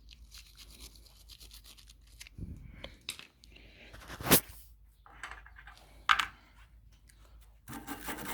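Brush scrubbing grime off a lawn mower part in quick back-and-forth strokes, with two sharp clacks about four and six seconds in.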